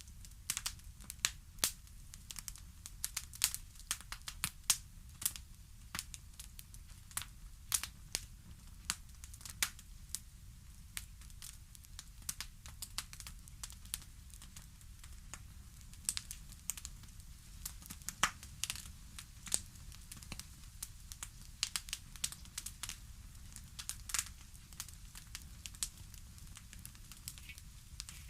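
Crackling wood fire: irregular sharp pops and snaps, several a second, over a low steady rumble.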